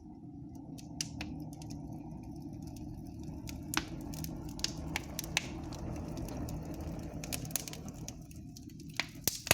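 Wood fire burning in a freshly lit brick fireplace: a steady low rumble of the flames drawing up the flue, with scattered sharp crackles and pops from the burning wood. The fireplace is drawing well, without spilling smoke.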